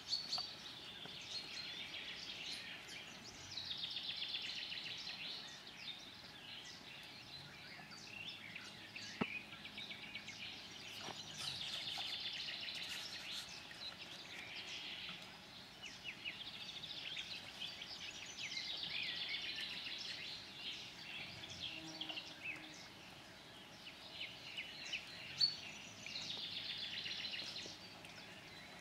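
A songbird singing, repeating a song phrase of rapid notes about two seconds long roughly every seven seconds, with scattered chirps between phrases.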